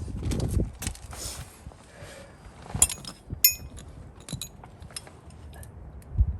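Metal tools and parts clinking and tapping during hands-on work, irregular clicks and knocks with one short metallic ping about three and a half seconds in.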